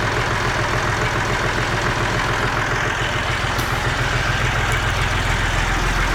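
Massey Ferguson MF230 tractor engine idling steadily. It has just been brought back to running and shows oil pressure and charging.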